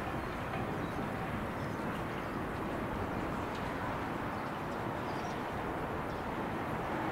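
Steady, even rumble of a departing JR West 113 series electric train heard from a distance, with a few faint high chirps over it.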